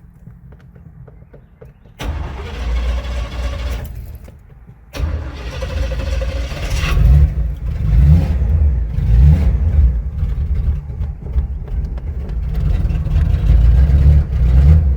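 Chevrolet Monte Carlo being cranked on a hot start in two goes: a short stretch of cranking about two seconds in, then from about five seconds a longer, uneven stretch of cranking and sputtering, rising and falling. The engine is flooded and won't settle.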